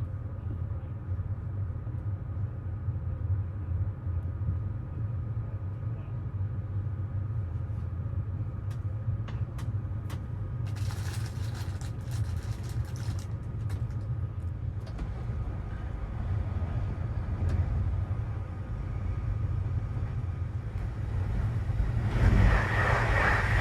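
Steady low rumble of a moving passenger train, with a few faint clicks about nine seconds in and a louder swell of rushing noise near the end.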